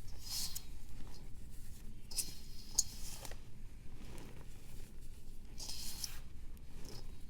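Dry scraping strokes of a blade shaving a pressed powder block, three longer strokes a couple of seconds apart and a short one near the end.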